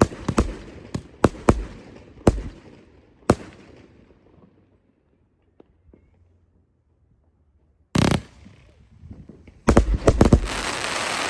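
Fireworks going off: a quick run of sharp bangs over the first three or so seconds, each trailing off in echo. Then a lull, a loud burst about eight seconds in, and a dense barrage of rapid bangs and crackling near the end.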